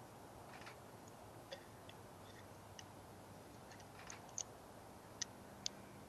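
Birds at a feeder: a handful of short, sharp high ticks scattered over a faint steady background, the three loudest in the second half.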